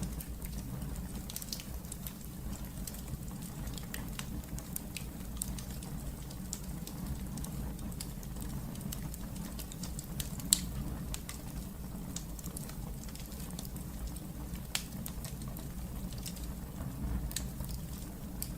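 Wood fire crackling in a fireplace: scattered sharp pops and snaps over a steady low rumble, with one louder pop about ten seconds in.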